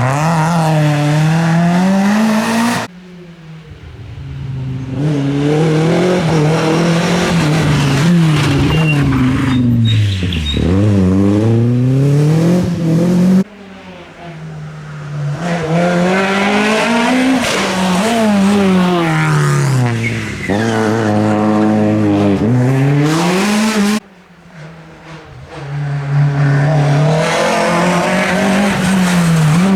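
Rally car engines at full throttle on a stage, their pitch rising and falling again and again through gear changes and lifts off the throttle. The sound drops abruptly about three, thirteen and twenty-four seconds in, where one car's pass gives way to the next.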